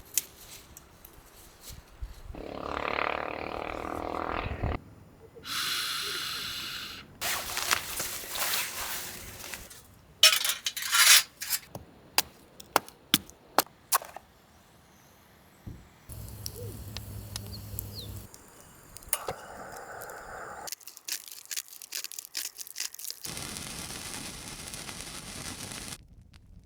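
Short bursts of camp-cooking sound cut one after another, changing abruptly every few seconds: stretches of hissing and crackling noise, and a run of sharp clinks and knocks in the middle.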